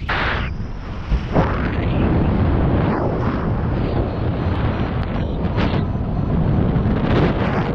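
Strong wind buffeting the microphone: a continuous low rumble with uneven gusts that surge and ease every second or two.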